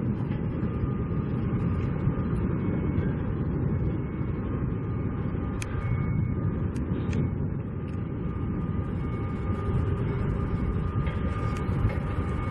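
Wind rumbling and buffeting on the microphone, steady throughout, with a faint high steady tone from machinery on the construction site.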